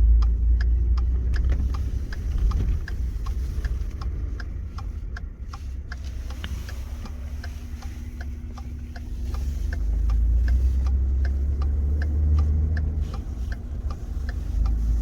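Car cabin rumble of engine and road noise while driving, with a turn-signal indicator ticking evenly, about two to three ticks a second. The rumble swells louder about nine seconds in.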